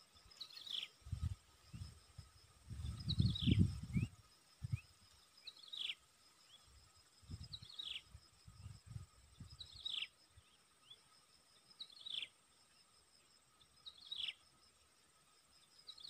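A bird repeats a short whistle that falls in pitch, about once every two seconds, over a steady drone of insects. Low rumbles and thumps come underneath, loudest a few seconds in and again about halfway.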